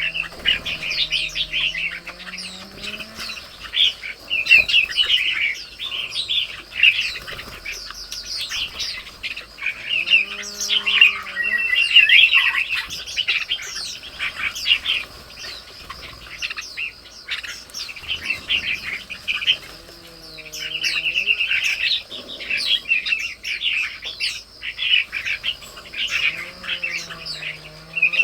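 Small birds chirping rapidly and continuously in a dense chorus. A lower, pitched call that slides up and down comes in four times: near the start, about ten seconds in, about twenty seconds in and near the end.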